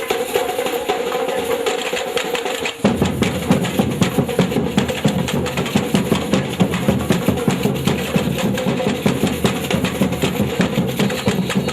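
Batucada samba percussion ensemble drumming a fast, driving rhythm. About three seconds in it cuts abruptly to a louder passage dominated by heavy bass drum strokes.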